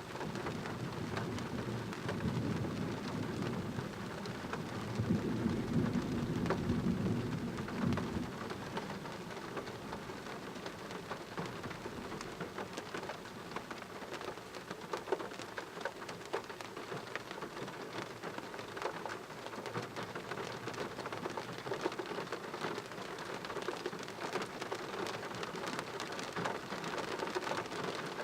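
Heavy rain falling in a thunderstorm, with individual drops ticking. A low rumble of thunder swells over the first several seconds and dies away about eight seconds in, leaving steady rain.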